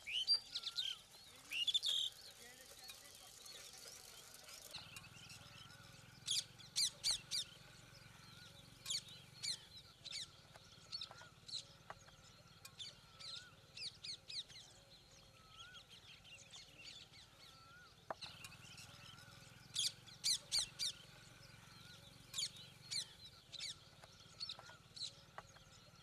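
Songbirds chirping: bursts of quick, high, sharp chirps every few seconds, over a softer whistle that repeats about every two seconds.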